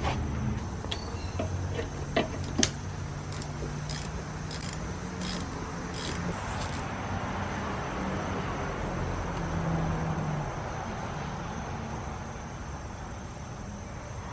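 A motor vehicle running steadily, with a scatter of sharp clicks in the first half.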